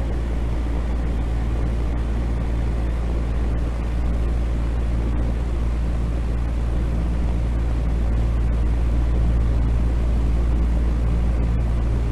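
Steady sleep noise: a deep, unchanging rumble with a fainter hiss above it and a faint hum in the low range, with no breaks or changes.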